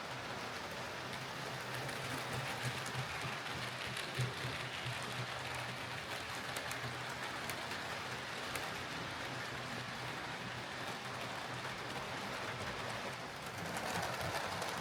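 Hornby OO gauge Rebuilt Merchant Navy model locomotive running on track on a test run after its repair: a faint steady motor hum under a continuous noisy rush of wheels on the rails.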